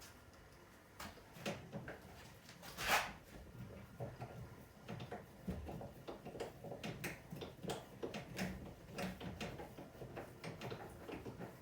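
Scattered clicks, knocks and rustles of hands working on refrigerator parts during reassembly, with one louder scraping rustle about three seconds in.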